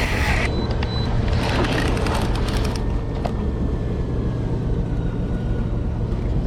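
Boat engine running with a steady low hum, with a patter of light clicks over the first few seconds.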